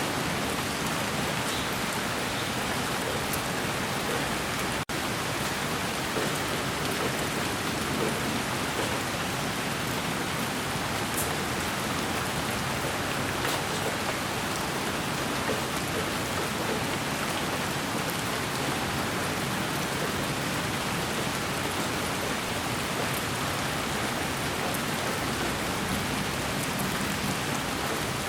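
Steady, even hiss of rain-like white noise with faint scattered drop ticks, broken by a momentary dip about five seconds in.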